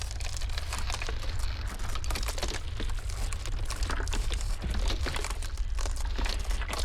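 Ice crackling and popping in a dense, continuous patter of small sharp cracks, over a steady low rumble of blizzard wind.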